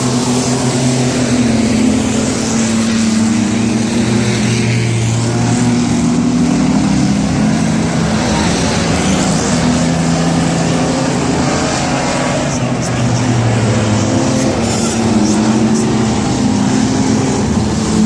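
Several race-truck engines running hard on a speedway track, their overlapping engine notes rising and falling in pitch as the trucks circle and pass.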